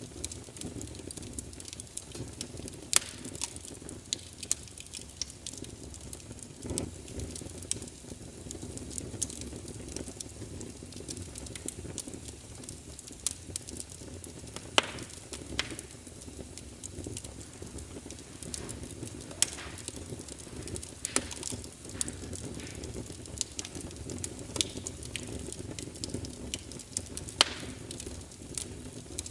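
Wood fire burning in a fireplace: a steady low rumble of flames with irregular crackles and pops, a few sharper snaps standing out among them.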